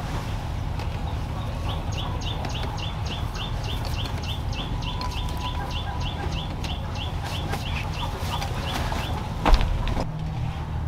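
A bird calls in a rapid series of short, high, rising chirps, about four a second, for some seven seconds. One sharp knock comes near the end.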